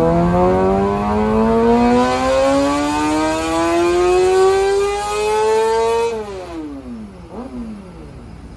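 A vehicle engine revving, its pitch climbing steadily for about six seconds before the throttle is let off and the revs fall away quickly.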